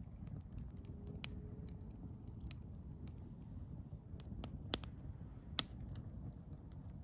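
Wood campfire crackling: scattered small snaps of burning wood over a low steady rumble, with two louder pops a little after the middle.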